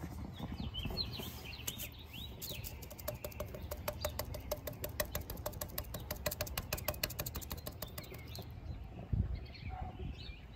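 Small birds chirping outdoors, with a rapid, even run of clicks at about five a second for several seconds in the middle, over a steady low hum. A dull thump sounds near the end.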